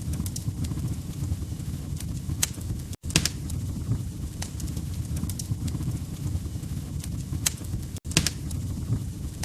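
Log fire crackling: a steady low rumble of burning with sharp pops scattered through it. The sound cuts out for an instant twice, about three seconds in and near the end.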